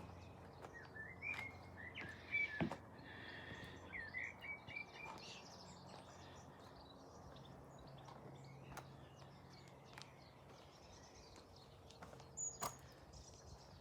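Birds chirping in short quick calls during the first few seconds, over a faint steady background hum, with a couple of sharp clicks.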